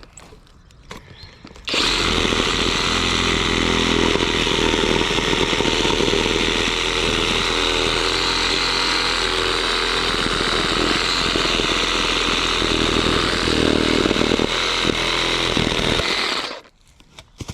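Skil cordless reciprocating saw cutting through tree wood. It starts about two seconds in, runs at a steady level, and stops about a second before the end.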